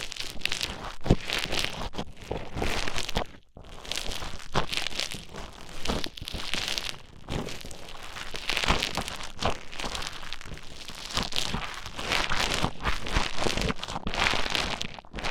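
Play Foam modelling beads stirred and squished with an ear pick close to the microphone: dense crackling and squelching, with a brief pause about three and a half seconds in.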